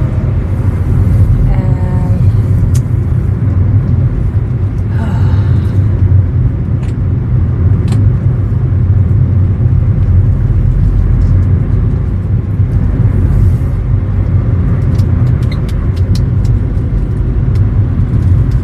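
Steady low rumble of a moving road vehicle: engine and road noise. A couple of faint short pitched sounds rise above it about two and five seconds in.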